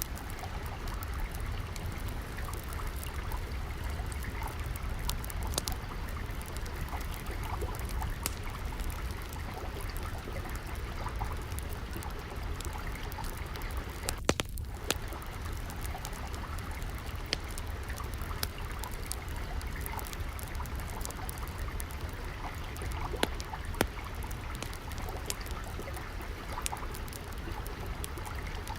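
Gently flowing water trickling steadily, with scattered sharp crackles and pops of a wood fire.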